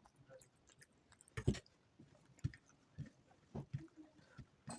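Close-miked chewing and wet mouth sounds of a person eating soft home-cooked Indian food: a handful of short smacks and clicks, the loudest about a second and a half in.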